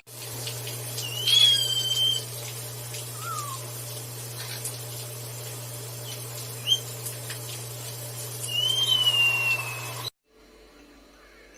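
Parrot whistling a few separate notes: two longer whistles that rise and then hold, plus shorter ones, over a steady low hum. The sound cuts off suddenly near the end.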